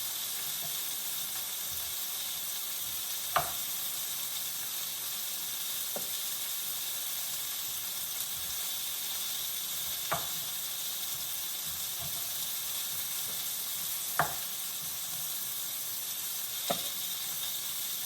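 Food sizzling steadily in a hot frying pan, with five short sharp knocks spread through it.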